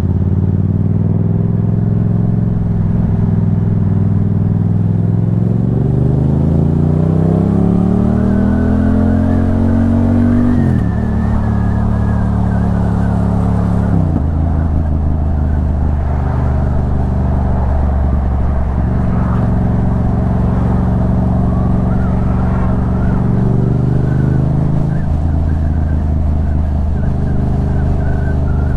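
Yamaha MT-07's 689 cc parallel-twin engine under way, revs climbing for several seconds from about six seconds in, then dropping sharply at gear changes about eleven and fourteen seconds in, followed by a steadier run and further rises in revs.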